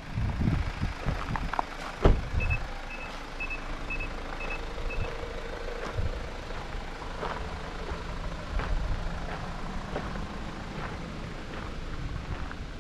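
A vehicle's reversing warning beeps six times, short even high-pitched beeps about two a second, over a low engine and tyre rumble. A sharp thump comes just before the beeps.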